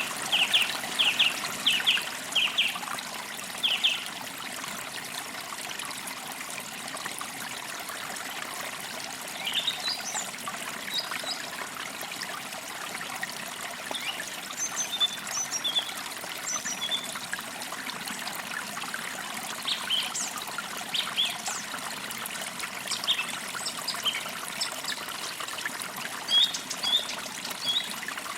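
Forest creek trickling steadily over stones, with small birds chirping in short bursts: a quick run of chirps at the start, then scattered high chirps and calls through the rest.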